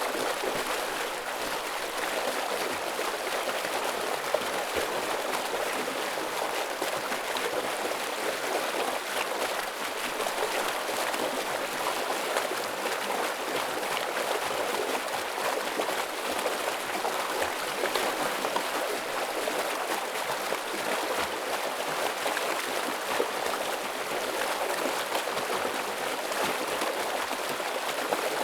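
Heavy stream water flowing in a steady, dense rush, with a constant patter of small splashes and gurgles throughout.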